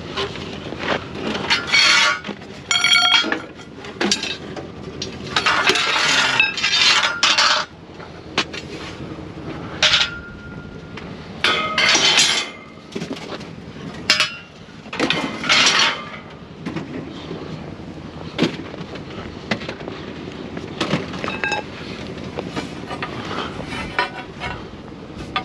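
Scrap items clanking and clattering as they are tossed and set down in a pickup truck bed. There is a run of loud clanks over the first fifteen seconds or so, a few of them ringing like struck metal, then only scattered small knocks.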